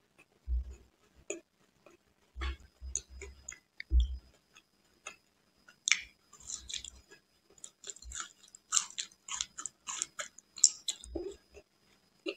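Close-miked chewing of a soft, syrupy fried Indian sweet, with wet mouth clicks and smacks. A bite lands about six seconds in and is followed by a dense run of crisp clicking chews.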